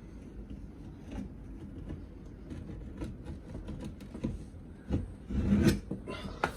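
Wooden panel being worked loose by prying, with rubbing and scraping of wood and scattered small knocks and creaks; one louder, longer strained sound comes near the end.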